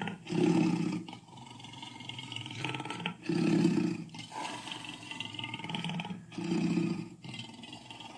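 Dinosaur roar sound effect of a T. rex: three loud roars about three seconds apart, with quieter drawn-out roaring between them.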